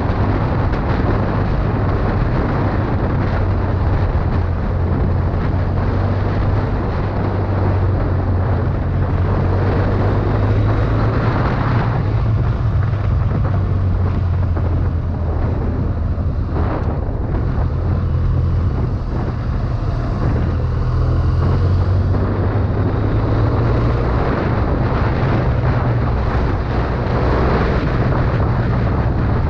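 2011 BMW F800ST's 798 cc parallel-twin engine running steadily under way, its low drone shifting slightly in pitch now and then, over a rush of wind and road noise.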